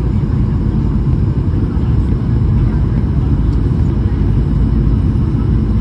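Boeing 737-800 jet noise from its CFM56-7B engines and airflow: a steady low rumble that holds level throughout.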